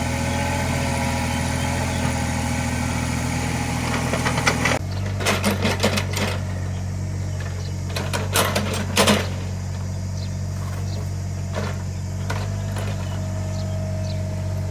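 Small Caterpillar mini excavator's diesel engine running steadily, working harder for the first few seconds and easing off at about five seconds. Two bunches of sharp clanks and knocks from the digging come about six and nine seconds in.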